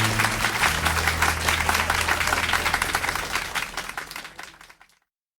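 Audience applauding at the end of a live jazz number, with a low held note sounding underneath. The applause fades out over the last second and a half and cuts to silence about five seconds in.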